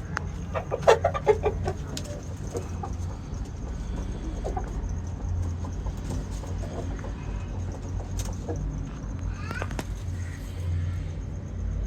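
Aseel rooster clucking in a quick run of short, loud calls about a second in, with scattered fainter calls after, over a steady low hum.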